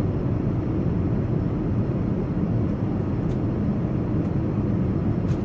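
Steady cabin noise of an Airbus A380 in cruise: a constant low rushing drone of airflow and engines, with a few faint clicks.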